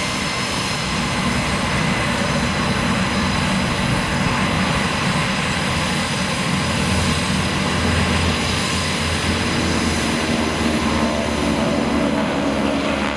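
Jet engines of F/A-18 Hornets in flight: a loud, continuous jet noise with a thin high whine, swelling a little through the middle.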